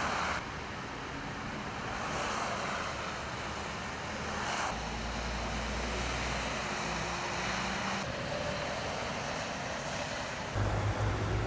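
Steady motorway traffic noise, a hiss of passing vehicles with a low engine hum. It changes abruptly about five seconds in and again near the end.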